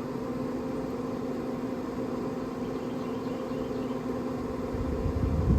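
Traeger Scout pellet grill's combustion fan running steadily during start-up, a constant hum, with a low rumble coming in near the end.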